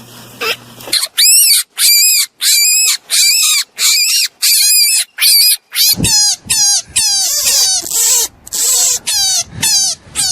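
Rabbit squealing: a rapid string of short, high-pitched squeals, about two to three a second, starting about a second in. The later squeals come faster and each falls in pitch.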